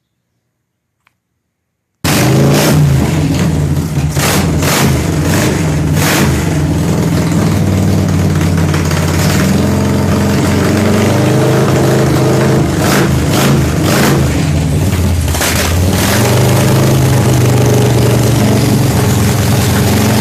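An engine running, cutting in suddenly about two seconds in and carrying on with a steady pitched hum, with several sharp bursts over the next few seconds.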